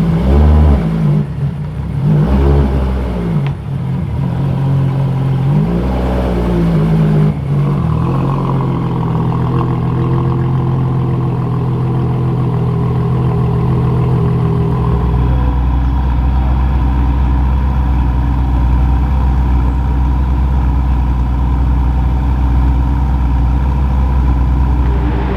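Ferrari Monza SP1's 6.5-litre V12 revved in three short blips, then idling steadily. A deeper low rumble comes in about halfway through.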